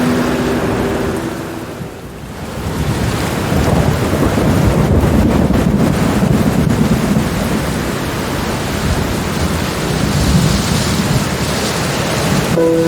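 Steady heavy rain with thunder. The level dips briefly about two seconds in, then a long, low rolling rumble of thunder builds and runs for several seconds before easing back to rain.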